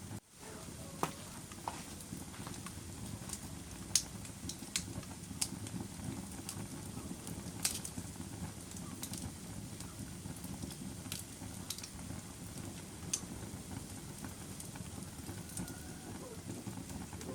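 Wood fire crackling in a fireplace: a steady low rumble of flames with scattered sharp pops, the loudest about four seconds in and again just before eight seconds.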